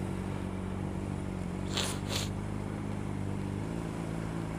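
Triumph Tiger Explorer motorcycle engine idling steadily, its note shifting slightly a little under four seconds in. Two brief hisses come about two seconds in.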